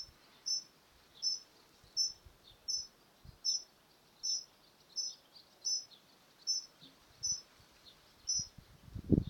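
A bird chirping over and over without a break, one short high chirp about every 0.7 seconds in an even rhythm.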